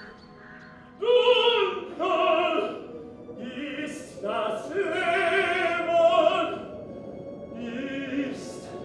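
Operatic solo singing, a high voice sustaining phrases with vibrato, entering loudly about a second in over faint background music.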